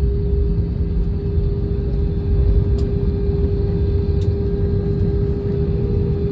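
Airbus A320 cabin noise while the airliner rolls on the ground after landing: a steady low rumble with a constant hum.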